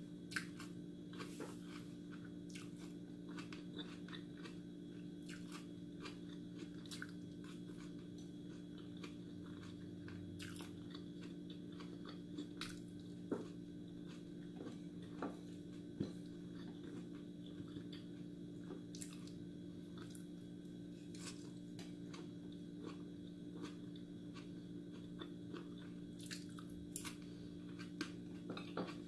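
Close-up chewing and mouth sounds of a person eating tuna macaroni, with scattered sharp clicks from wooden chopsticks against a ceramic plate, over a steady low hum.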